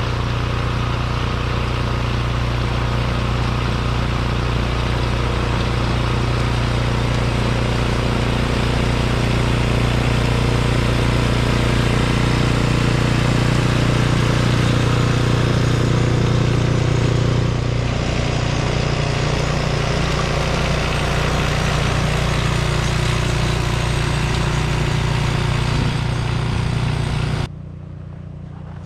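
A motor vehicle's engine running steadily with a low, even hum. It drops away abruptly near the end, leaving a quieter background.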